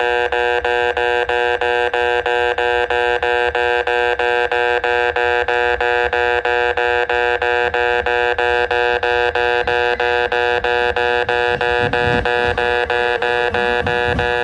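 Japanese railway level-crossing warning bell ringing, a loud electronic chime of several tones repeating about three times a second. A low rumble joins about twelve seconds in.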